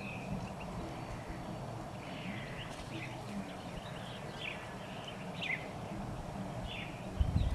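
Scattered short bird chirps over a steady low outdoor rumble, with a few louder low thumps near the end.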